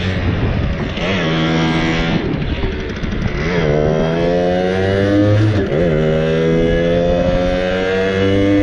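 Simson Habicht's 50 cc two-stroke single-cylinder engine under way, its revs climbing and then dropping back at gear changes about three times, then rising steadily.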